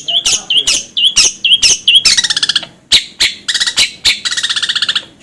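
A caged songbird calling: a run of short, sharp chirps at about four a second, then two fast, harsh rattling trills, the second longer than the first.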